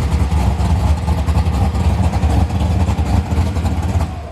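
Classic Chevrolet Nova's engine running close by, a loud low exhaust rumble that drops away suddenly near the end.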